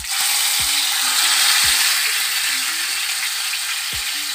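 A marinated tandoori chicken leg frying in about 100 g of hot oil in a pan: a loud, even sizzle that starts as the piece goes into the oil.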